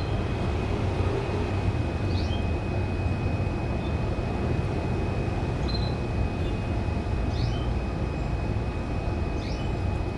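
Steady low rumble of background noise with a thin steady high whine, and a few brief, faint bird chirps, one every couple of seconds.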